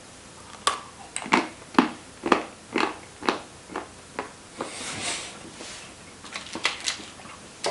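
Chewing chocolate off a spoon, with about two chews a second for several seconds. A breath and a few light clicks follow as small items are handled on a table.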